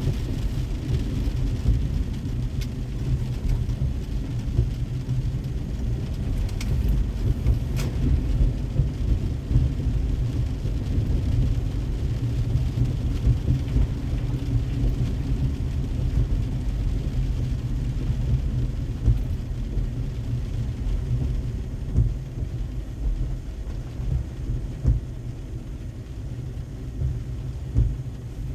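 A car driving in the rain: a steady low rumble of road and engine noise under a fainter hiss of rain, with a few sharp ticks about a third of the way in.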